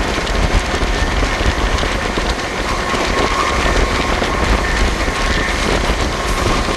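Passenger train coaches running along the track, a steady rumble and rattle of wheels on rails with a faint high whine.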